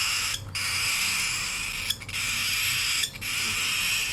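Young hand-fed cockatiels giving harsh, raspy food-begging calls. The calls are long and hissing, and they come one after another with short breaks about every second and a half.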